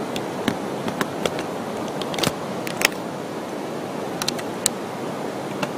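Scattered light clicks and taps, some nine in all, over a steady rushing background noise.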